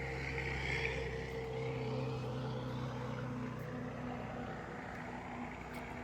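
A motor engine running with a steady, even hum.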